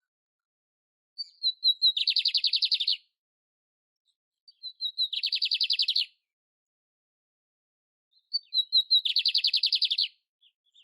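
A songbird, billed as a canário império, sings the same short phrase three times: a few quick high chirps running straight into a rapid trill about a second long.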